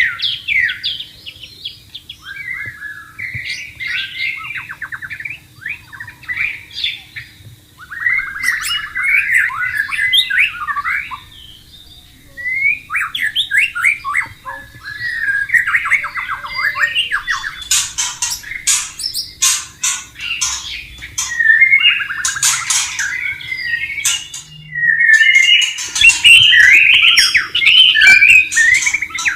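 White-rumped shama singing a long, varied run of whistled, trilled and harsh phrases, with one short break about 25 seconds in, over a faint steady low hum.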